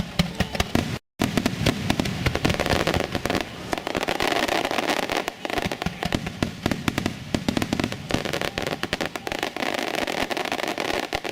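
Aerial fireworks bursting in a rapid, dense string of cracks and pops. The sound cuts out completely for a moment about a second in.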